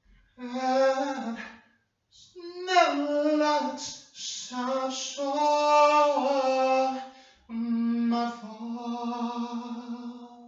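A single voice singing slow, held notes unaccompanied, in several phrases with short breaths between them; the last long note wavers with vibrato.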